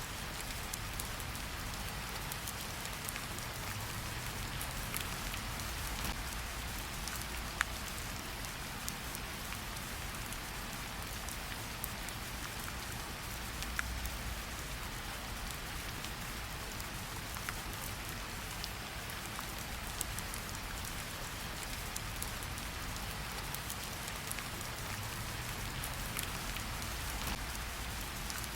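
Steady rain falling, with a few sharp drop ticks standing out now and then.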